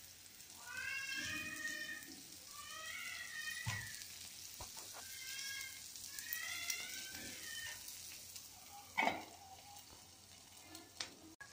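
Batter and oil sizzling in a non-stick paniyaram (appe) pan. A cat meows four times over it in drawn-out rising-and-falling calls, and about nine seconds in a steel lid clanks down onto the pan.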